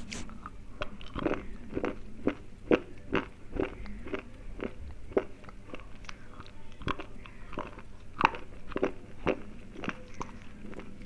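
Close-miked crunching of a person biting and chewing a slate pencil: a bite at the start, then a run of sharp, dry crunches about two a second.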